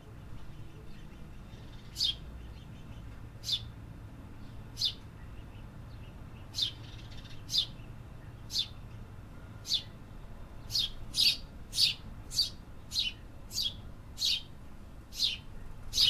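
A small bird calling over and over with short, sharp chirps that sweep down in pitch, at first about one every second or so and then faster, roughly two a second, in the second half, over a steady low background hum.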